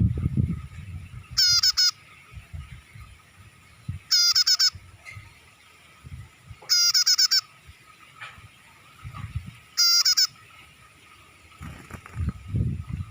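Prenjak (prinia) call: four short bursts of rapid, high, repeated chirping notes, spaced about every two and a half seconds. A low rumbling noise is heard at the start and again near the end.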